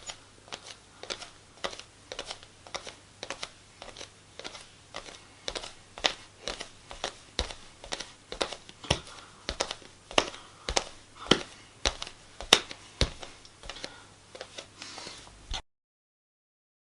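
Footsteps on a wooden floor: light, even steps clicking about two to three times a second. They stop abruptly near the end.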